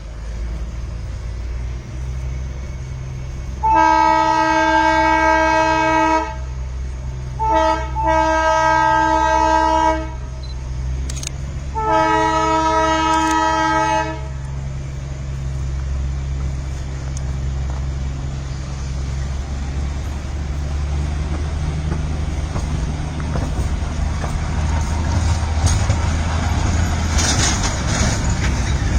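Darjeeling Himalayan Railway narrow-gauge toy train sounding its horn: a long blast, a short toot, another long blast, then a third long blast, over the steady low running of the train. Near the end the running grows louder with a clatter.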